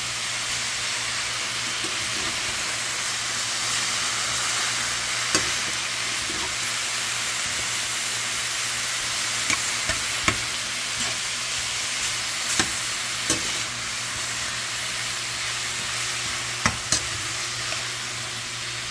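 Chicken and vegetables sizzling steadily in a hot metal skillet as they are stir-fried, with a spatula clicking against the pan now and then.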